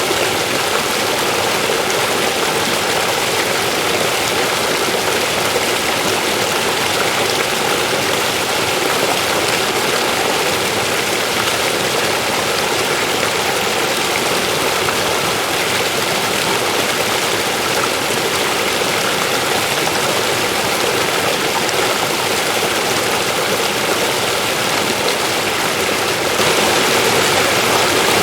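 River water flowing over rocks: a steady rushing sound that gets slightly louder near the end.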